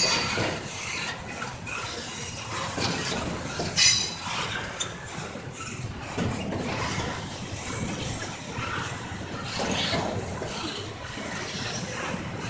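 Intermodal freight train rolling past: steady rumble of its cars and wheels with scattered knocks over the rails, and a brief high wheel squeal about four seconds in.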